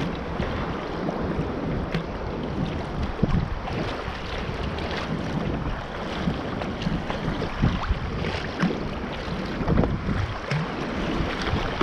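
Wind buffeting the microphone over water sloshing and splashing around a sea kayak, with uneven low rumble and short splashy peaks.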